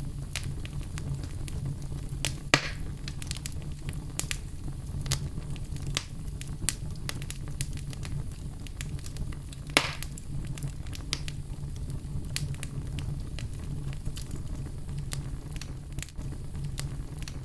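Fire burning in a fireplace: a steady low rumble of flame with frequent small crackles, and two louder pops, one about two and a half seconds in and another about ten seconds in.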